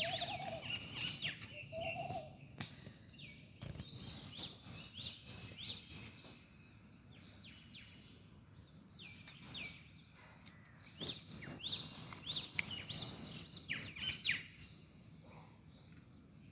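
Bird chirping in quick runs of short, high chirps, one run in the first few seconds and another after a quieter gap of a few seconds.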